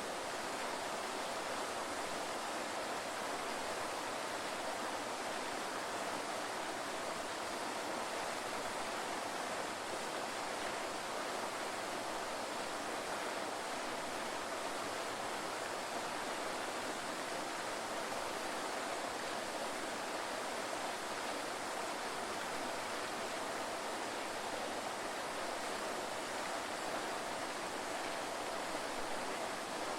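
Waterfall: a steady, even rush of falling water, mostly hiss and splash with little low rumble.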